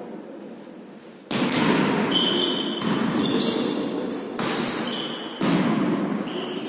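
A volleyball being struck and bouncing on a sports-hall floor, with sneakers squeaking on the court, in an echoing hall. The loudness jumps up suddenly about a second in and again past the five-second mark.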